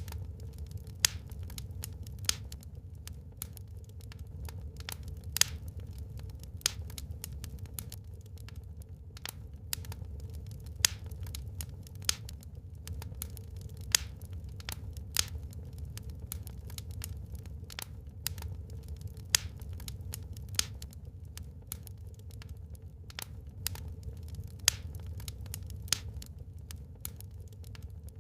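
Wood fire burning in a fireplace, crackling with a steady run of small snaps and sharper pops about every second or two, over a low steady rumble.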